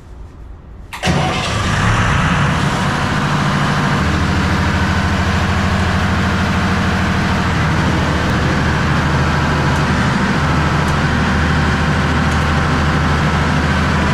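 Trawler's generator set engine running loud and steady, starting abruptly about a second in; a deeper low note joins about three seconds later.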